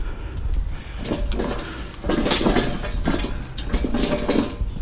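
Rattling and clattering, like metal being handled, starting about a second in over a low rumble.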